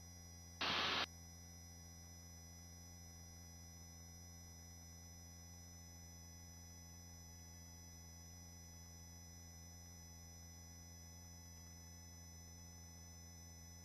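Faint, steady hum of the helicopter heard through the headset intercom, made of several constant tones. Less than a second in, a short burst of hiss sounds as a headset microphone briefly opens.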